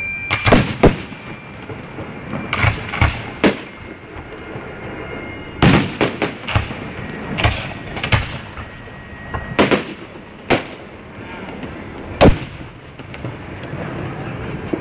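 Aerial fireworks bursting: a dozen or so loud bangs in quick clusters, echoing, with a rumble between them.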